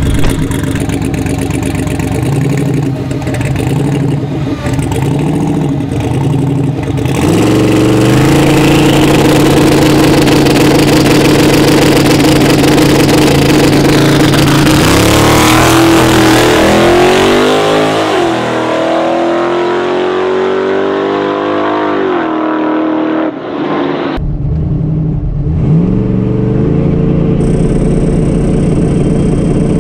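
Twin-turbo LS V8 street truck revving on the start line, then holding a steady note on the two-step launch limiter for several seconds before launching and pulling away with rising and falling pitch. The engine sound changes abruptly near the end to another engine idling and revving.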